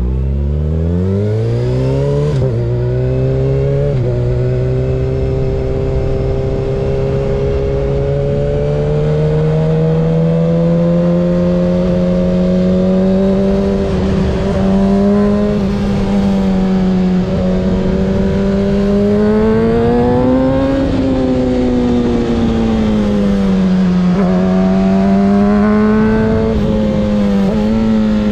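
Kawasaki ZX-6R 636 inline-four sport bike engine through a Graves aftermarket exhaust, pulling hard from low revs with two quick upshifts in the first few seconds. It then runs at steady mid revs that rise and fall with the throttle, with a couple of short dips in revs near the end.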